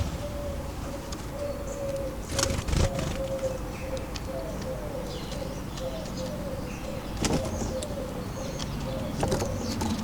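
Common wood pigeon cooing, a low, even-pitched call that runs on with small breaks through most of the stretch. A few sharp knocks come in, loudest about two and a half seconds in, with faint high chirps of small birds.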